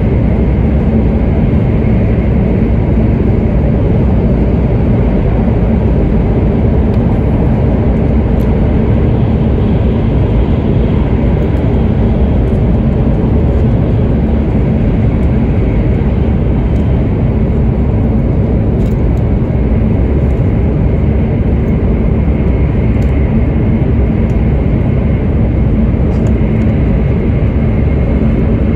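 Cabin noise of a Hokuriku Shinkansen train running at speed: a steady, loud rumble with a constant low hum and a faint high tone above it.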